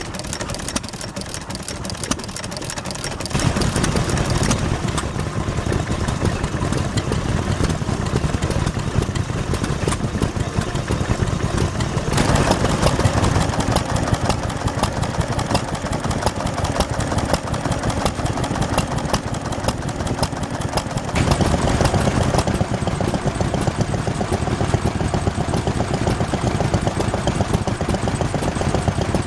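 Vintage stationary engines running at a steady idle, with rapid regular firing. The sound changes abruptly about three, twelve and twenty-one seconds in, as one engine gives way to another.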